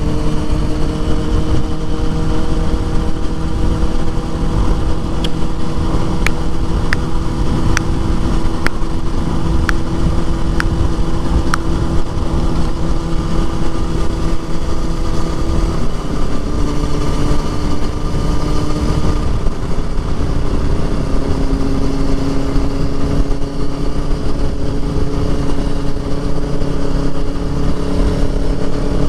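Motorcycle engine running steadily while riding, with heavy low wind and road noise on the microphone; the engine pitch drops a step about halfway through, then holds. About a third of the way in comes a run of roughly nine sharp ticks, about one every three-quarters of a second.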